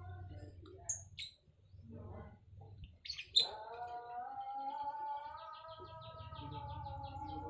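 Small pet birds chirping: a few sharp, high single calls, then from about four seconds in a fast, even run of short chirps, about seven a second.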